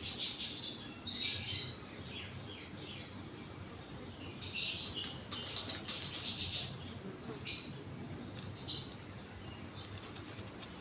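Indian ringneck parrot chirping and chattering in short high calls, with a cluster of calls in the middle and single sharp chirps near the end.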